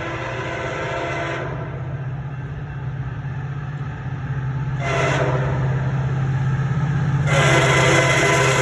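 MARC commuter train sounding its horn as it approaches at speed: a long blast that ends about a second and a half in, a short blast about five seconds in, then another long blast from about seven seconds. This is the pattern of a grade-crossing horn signal. Under the horn a steady low rumble grows louder as the train nears.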